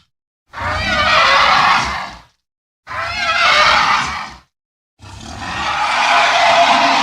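Three bear roar sound effects separated by brief silences, each with a wavering pitch; the third is the longest.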